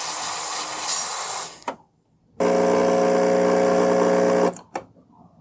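Capresso espresso machine steam wand hissing, cutting off with a click about a second and a half in. After a short pause the machine starts again: a steady electric buzz with hiss for about two seconds, then another click and it stops. The wand is steaming again now that vinegar descaling has freed its stuck valve.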